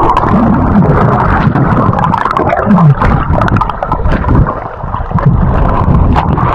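River water gurgling and splashing around a kayak as it is paddled upstream against the current, with many small splashes.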